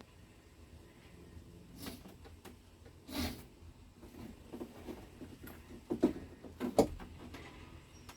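Hand-work clatter of parts and tools being handled: scattered light clicks and a brief rustle, with two sharp knocks about six and seven seconds in.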